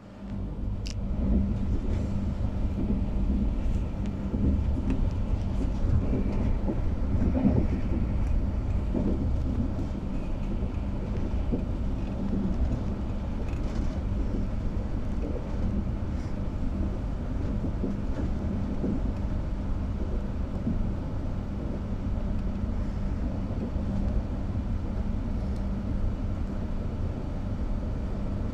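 Trenord TAF electric multiple unit running at speed, heard from inside the carriage: a steady low rumble of wheels on rails with a constant low hum.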